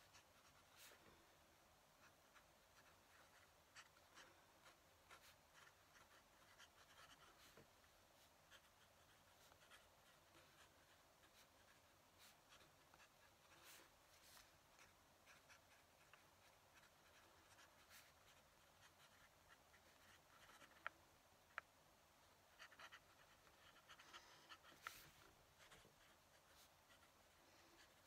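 Faint fountain pen nib scratching across paper in short, irregular strokes as someone writes by hand. Two sharp ticks come about two-thirds of the way through.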